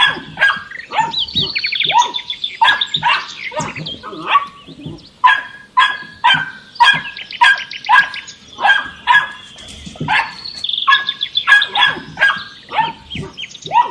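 Dog barking repeatedly, about two barks a second. Twice a bird's quick high chirping trill sounds alongside.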